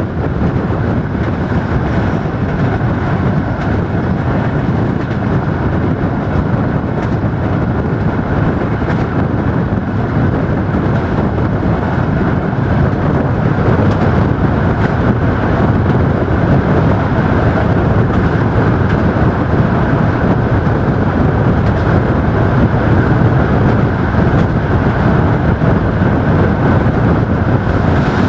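Passenger coach rolling at speed, heard from an open window: a steady rumble of wheels on the rails mixed with rushing air, growing a little louder about halfway through, with a few faint clicks.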